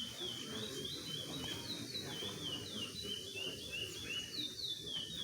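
Songbirds singing: a continuous run of short, high, falling whistled notes, several overlapping, over a low background hum of noise.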